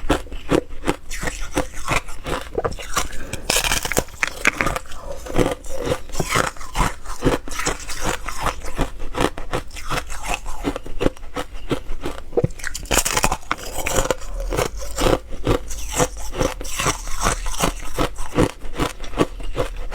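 Ice being bitten and chewed close to the microphone: continuous crunching, cracking and crackling of hard ice, several crunches a second.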